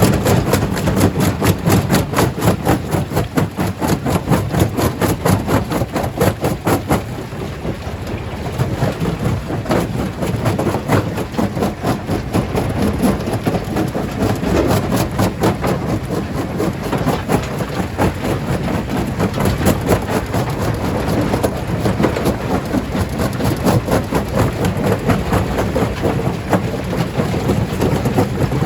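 Stone crusher breaking rocks: a dense, continuous clatter of stone cracking and knocking over the low drone of heavy machinery.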